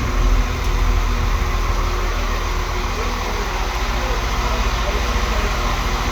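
A vehicle engine running steadily, a loud low rumble with a constant hum.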